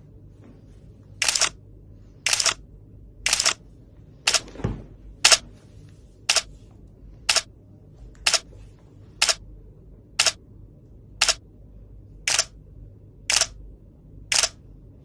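Short, sharp clicks repeating evenly about once a second, fourteen in all, with a duller thump about four and a half seconds in.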